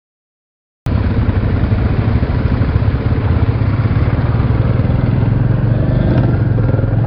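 Royal Enfield Classic 350's single-cylinder engine running steadily under way, cutting in suddenly a little under a second in.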